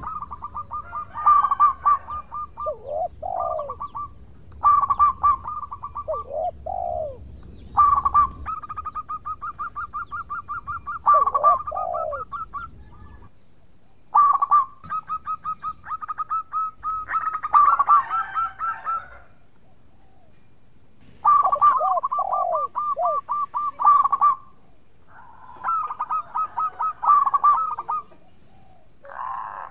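Zebra dove (perkutut) cooing in phrases of fast, staccato pulsed notes, about six phrases with short pauses between them. A low rumble sits under the first half.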